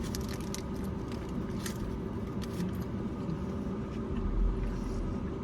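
Steady low rumble of a running car, with a few short soft clicks and smacks from eating.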